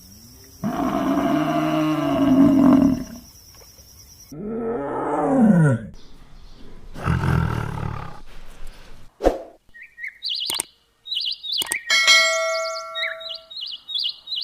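A run of different animal calls: a long low pitched call, then a call rising and falling in pitch, then a rough low roar, followed by a couple of sharp clicks and quick high chirps near the end. A steady high insect drone runs under the first four seconds.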